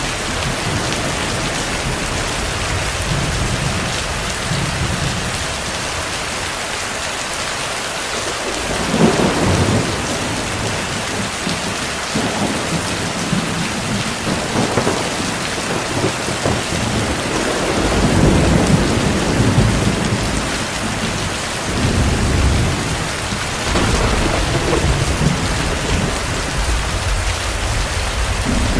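Steady heavy rain, with several low rolls of distant thunder rumbling through it: one about nine seconds in, a longer one past the middle, and more toward the end.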